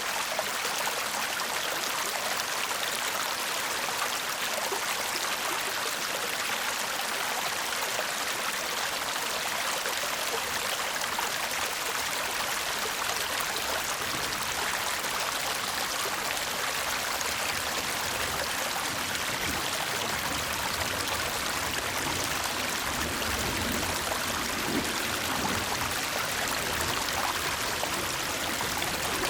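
Shallow stream babbling and trickling steadily over stones, an even rushing hiss with a slightly fuller low gurgle in the second half.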